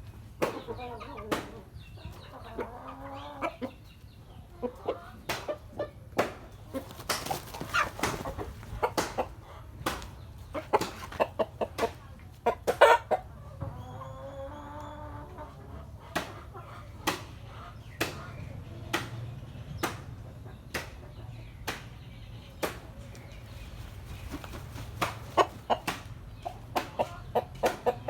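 Chickens clucking in short pitched calls, with many sharp, irregular taps throughout.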